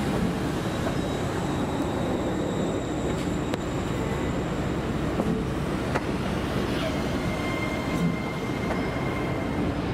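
LNER Azuma train running slowly past along the platform: a steady rumble of wheels on rail with a few sharp clicks over the track joints. A thin high whine comes in about seven seconds in.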